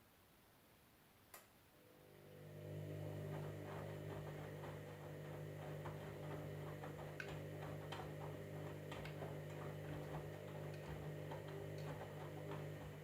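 Candy washing machine mid-cycle: a single click, then a motor hum starts up and holds steady, with light irregular ticking over it.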